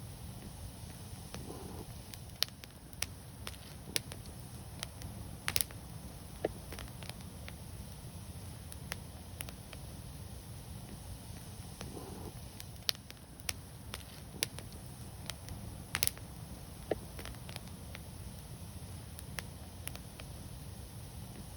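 Wood fire crackling: irregular sharp pops and snaps over a steady low rumble of burning, with two louder pops about five and a half and sixteen seconds in.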